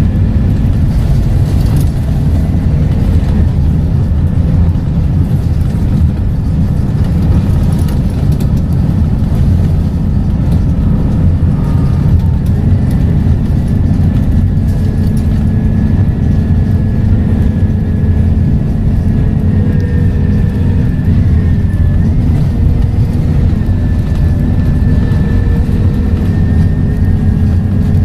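Scania K230UB bus's five-cylinder diesel engine and ZF automatic gearbox running steadily: a low drone with a thin steady whine above it.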